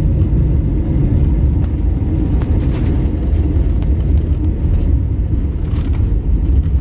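Steady low rumble of engine and airflow noise inside an Airbus A321neo's cabin in flight.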